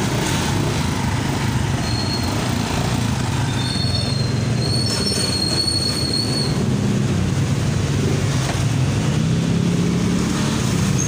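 Small single-cylinder Honda motorcycle engine running steadily after months of sitting unused. A thin high squeal comes and goes between about two and six seconds in.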